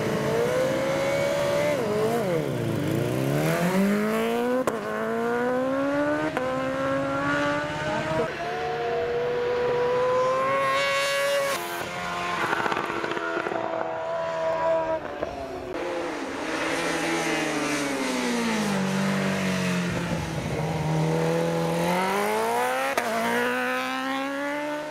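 Superbike engine at full throttle, accelerating hard through the gears: the pitch climbs and drops sharply at each upshift, eases down and back up over a few seconds past the middle, then climbs hard again near the end.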